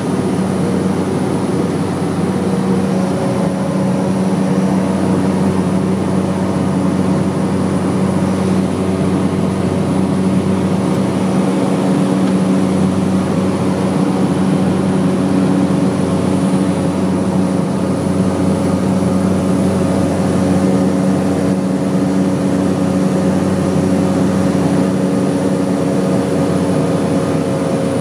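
Propeller airplane's engine and propeller running at steady climb power just after takeoff: a loud, even drone with a strong low hum.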